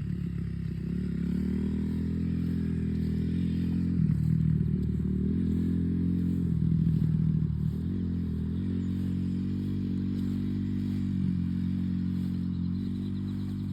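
Dirt bike engine running as the bike rides off, its pitch rising and easing off several times with uneven throttle, loudest around four and seven seconds in.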